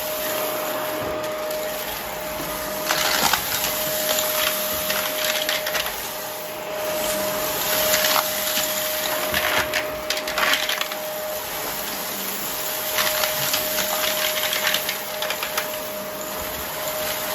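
Vacuum cleaner running with a steady motor whine. Several spells of crackling as grit and debris rattle up into it: about three seconds in, again from about seven to eleven seconds, and near the end.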